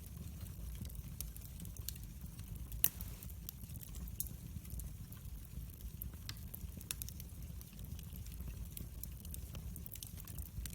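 Wood fire in a fireplace crackling: a low steady rumble of burning with scattered sharp pops and snaps, one louder pop about three seconds in.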